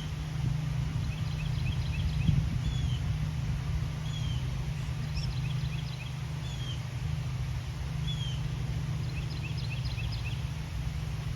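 Birds calling: one short, high, down-curving call repeats every couple of seconds, with three bursts of five or six quick chirps in between. Under them runs a steady low rumble, with a brief low bump about two seconds in.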